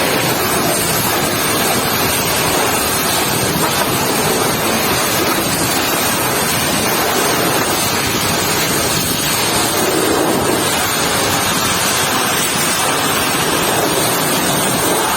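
Pressure washer jet spraying water onto a mud-caked truck, a loud, steady hiss of water.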